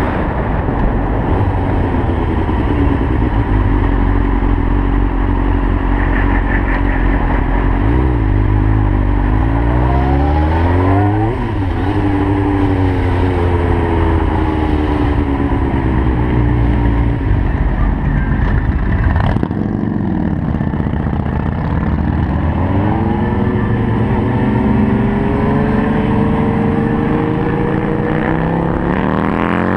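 Sport motorcycle engine heard from the rider's seat, accelerating and easing off in traffic: its pitch climbs, falls back and climbs again several times. A short sharp click comes about two-thirds of the way in.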